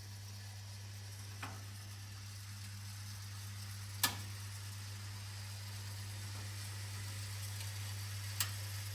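Gorenje PS 1008 BM washing machine humming steadily at a low pitch, with three sharp clicks, one about a second and a half in, one about four seconds in and one near the end.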